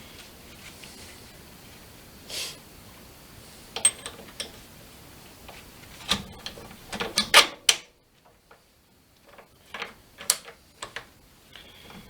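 Scattered metallic clicks, clinks and knocks of a slip-on exhaust muffler and its mounting hardware being handled and fitted, with a busy cluster of knocks about six to eight seconds in.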